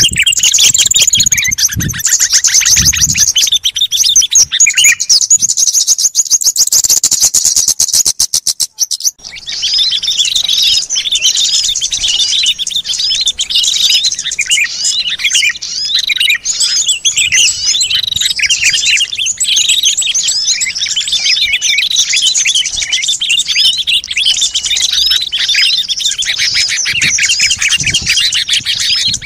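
Small songbirds calling, as played on a bird-lure recording: a very fast run of repeated notes for about the first nine seconds, then after a brief break a dense chorus of many overlapping chirps.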